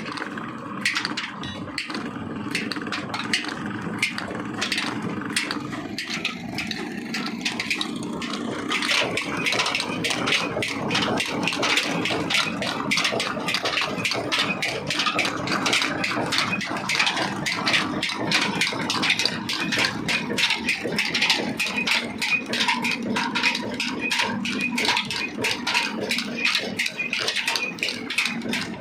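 Old 35 HP, 300 RPM stationary diesel 'black engine' running with a fast, regular clatter of knocks. It grows louder and busier about eight seconds in as the engine picks up.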